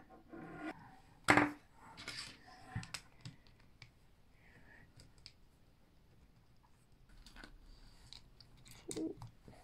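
Meccano Junior construction parts and tools handled during assembly: scattered light clicks and short scrapes, with one sharper knock about a second and a half in.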